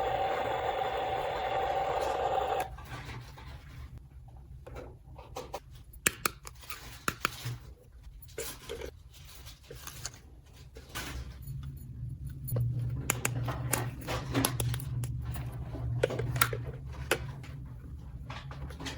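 Scattered light clicks, taps and rattles of small hard objects being handled, over a low steady hum, after a steady sound that stops about three seconds in.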